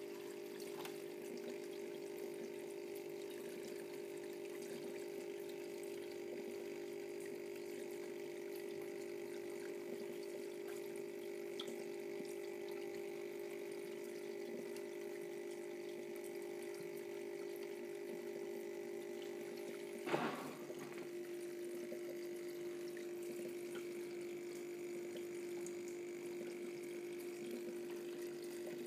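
Electric water pump of an aquarium sludge cleaner running with a steady hum as water flows and trickles through it. A single knock comes about two-thirds of the way through, after which the hum settles slightly lower in pitch.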